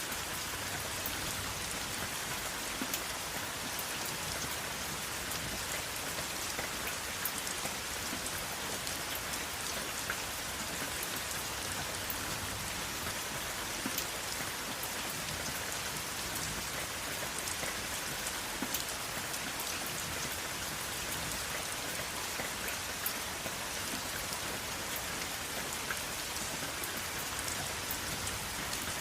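Steady rain falling, a continuous hiss with many small drop ticks on a surface throughout, no thunder.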